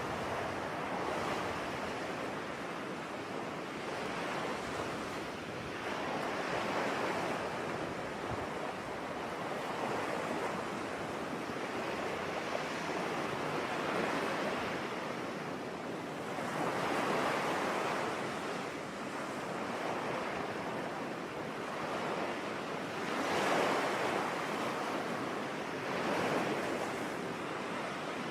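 Ocean waves washing onto a shore: a steady rushing hiss that swells and falls back every few seconds as each wave breaks.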